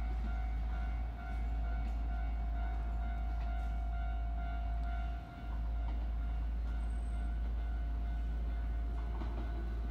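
Electric commuter train approaching a station platform from a distance, with a steady whine, under heavy wind rumble on the phone's microphone that eases briefly twice.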